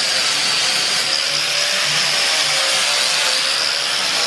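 Power tool running continuously at a steady level, a dense hiss with a high whine whose pitch wavers slightly.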